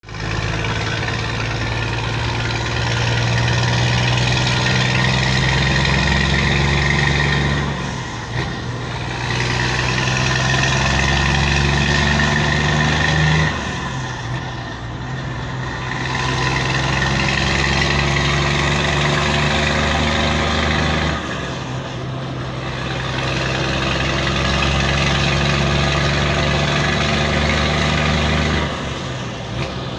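Scania 124G 420 truck's diesel engine running through a straight exhaust pipe. Its note holds steady for several seconds at a time, then drops off briefly, four times over.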